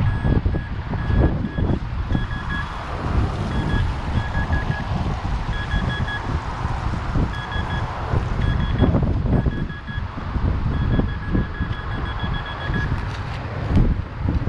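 Minelab Vanquish 440 metal detector giving runs of short repeated beeps as it is swept over a buried target, which turns out to be an aluminium pull-tab can. Heavy wind buffets the microphone throughout.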